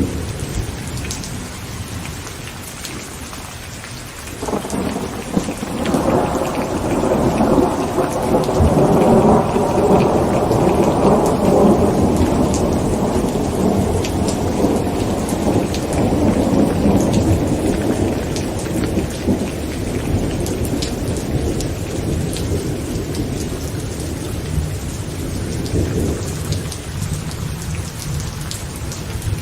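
Heavy rain falling on a tent, with a long roll of thunder that sets in about four seconds in, swells, and slowly dies away over some twenty seconds; another rumble begins near the end.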